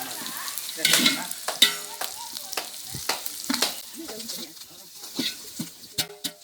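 A metal ladle stirring a pot of frying curry: a series of uneven scrapes and knocks against the pot, some ringing briefly, over the sizzle of the frying.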